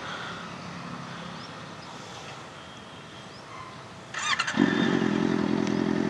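Honda CBR650F's 649 cc inline-four cranked by its electric starter about four seconds in, catching at once and settling into a steady idle through an SC-Project aftermarket exhaust.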